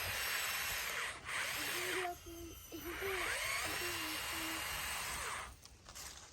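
Kookaburras calling in chorus in two long bouts of chattering calls. The first bout breaks off about two seconds in, and the second stops near the end.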